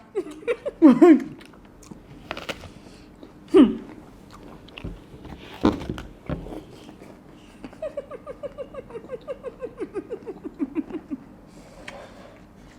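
Apples being bitten and chewed without hands, with scattered crunchy bites. A few short vocal sounds come early on, and in the second half a quick run of short vocal sounds falls in pitch for about three seconds.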